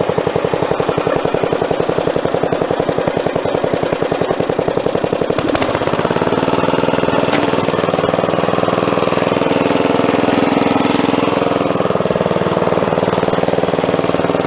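Wheel Horse A-800 Ranger lawn tractor engine running with a fast, even putter. About five and a half seconds in it picks up to higher revs and holds there.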